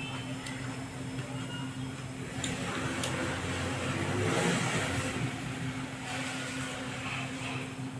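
A vehicle passing by, its noise building to a peak about halfway through and then fading, over a steady low hum.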